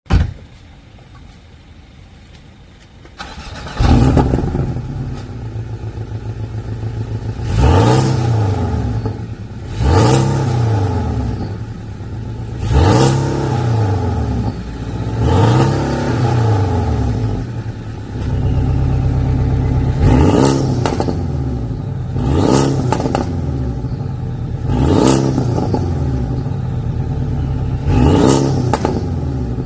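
Porsche 718 Boxster with a custom downpipe: the engine starts about four seconds in and settles into a fast idle, then the exhaust is blipped through a series of quick free revs, each rising and falling back to idle. A brief sharp knock comes at the very start, before the engine fires.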